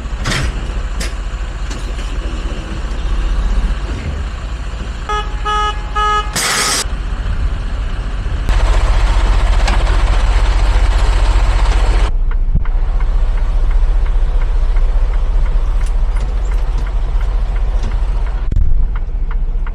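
Tractor-trailer's diesel engine running, heard from inside the cab. About five seconds in there are three short horn toots, then a brief hiss of air, and the engine noise gets louder a few seconds later as the truck gets going.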